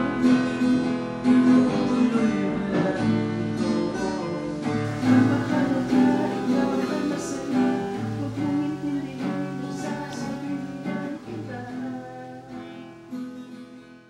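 Acoustic guitar being strummed, fading out near the end.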